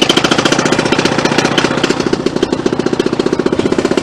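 Paramotor's two-stroke engine running steadily just after starting, a fast, even putter, on its freshly repaired exhaust.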